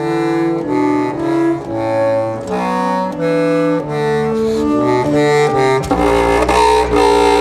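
Clarinet and double bass playing contemporary chamber music: a line of short, separate pitched notes following one another at about two or three a second. About six seconds in, a low rumble and a denser texture enter beneath them.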